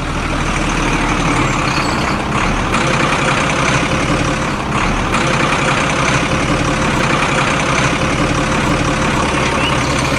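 A truck engine running steadily, with no change in pitch or level.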